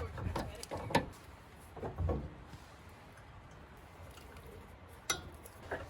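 Campfire crackling: a few scattered sharp pops and snaps, most in the first two seconds and one about five seconds in.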